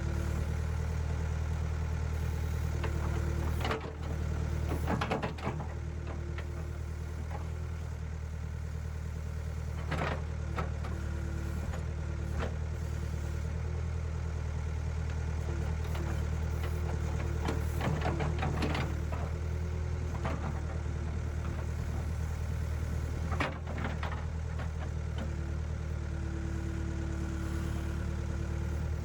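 Backhoe engine running steadily while digging, with a whine that comes and goes and several sharp clanks scattered through.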